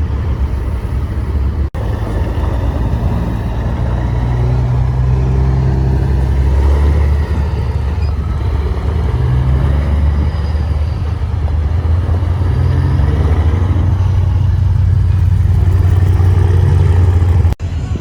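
Heavy truck engine running with a deep, steady drone whose pitch shifts a few times.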